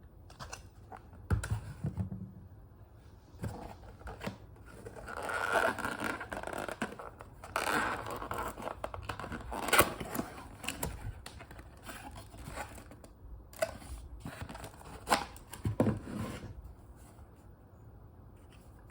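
Packaging being handled and opened: paper and cardboard scraping and tearing, with scattered sharp clicks and taps.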